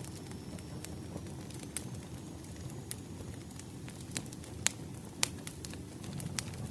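Wood fire crackling: irregular sharp pops and snaps over a low, steady rumble of burning logs. The loudest snaps come a little past the middle.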